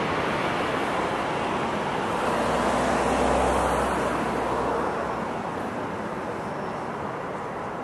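KTX high-speed train passing at speed: a steady rushing noise that swells to its loudest about halfway through, with a low rumble underneath, then slowly fades as the train moves away.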